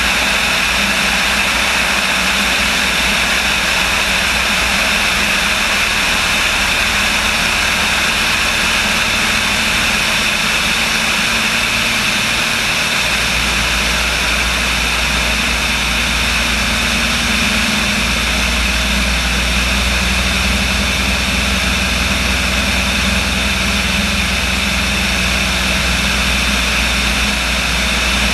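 Aircraft engine running steadily, a constant loud drone; the low hum shifts about halfway through.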